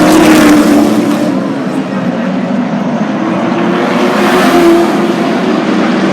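Race trucks' engines at speed passing on a short oval: a loud pass at the start that fades after about a second, then another truck swelling past about four seconds in.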